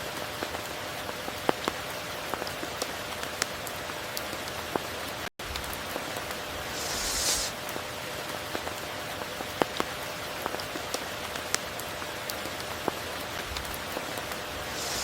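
Steady rain hissing, with sharp individual drops ticking close by throughout. The sound cuts out for an instant a little after five seconds in, and a brief louder hiss swells and fades about seven seconds in.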